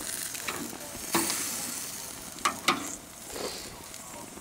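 Steaks and chicken kebabs sizzling on a propane barbecue grill, with a few sharp clicks about a second in and twice more a little past halfway.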